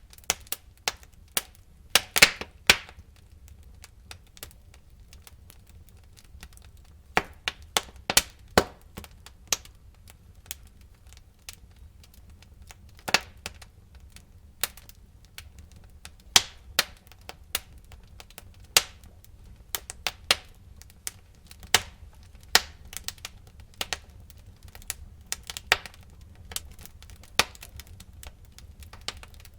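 Wood fire burning in a fireplace, crackling and popping irregularly over a low steady rumble, with a quick cluster of loud pops about two seconds in and another around eight seconds.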